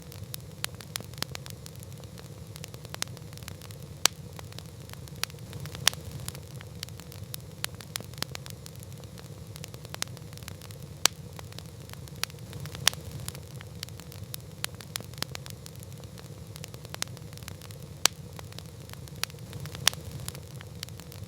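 Wood campfire burning steadily: a low rumble and hiss with irregular crackles and occasional sharp pops.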